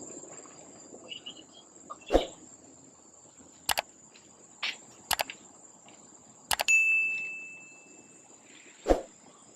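Forest insects, crickets or cicadas, keeping up a steady high-pitched whine, broken by five or six sharp knocks and clicks. About two-thirds of the way through, one knock is followed by a single clear ringing tone that fades out after about a second and a half.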